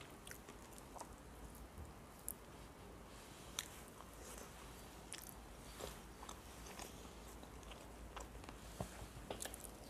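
A person chewing and eating with the fingers: faint, scattered wet mouth clicks and smacks, coming thicker near the end.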